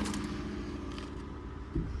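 A 2021 Ford F-150 pickup's engine idling steadily, with one short thump near the end.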